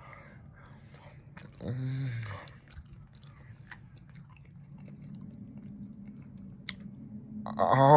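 A person chewing a mouthful of crab cake, with wet mouth clicks, and a short "mm" about two seconds in. Near the end comes a loud, rising "mmm" of enjoyment.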